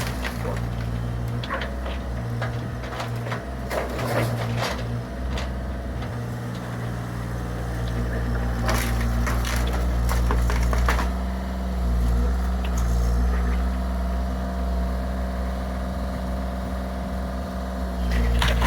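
Bobcat mini excavator's diesel engine running steadily while the garage's wood framing is crushed and splintered, with clusters of cracking and crunching impacts in the first few seconds and again around nine to eleven seconds in.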